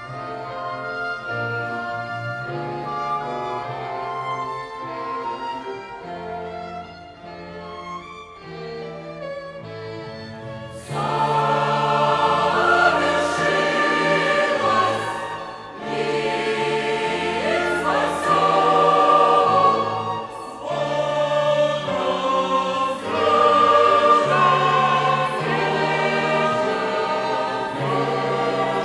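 Choir singing with a violin ensemble accompanying. The music is quieter at first, then grows much louder and fuller about eleven seconds in.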